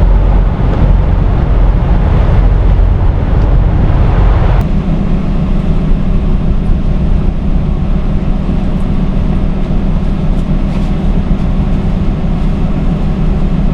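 Steady low drone of an idling diesel engine, most likely the semi truck's own. About four and a half seconds in, a higher rushing layer drops away and the low hum comes forward.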